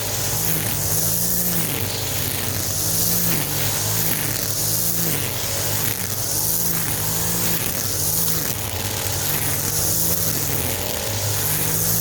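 Small petrol engine of powered yard equipment running steadily, its pitch swelling and dipping about every second and a half.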